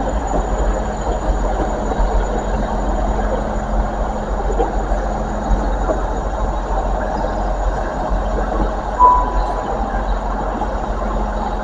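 A train at a station platform: a steady engine hum over a low rumble, with one short beep about nine seconds in.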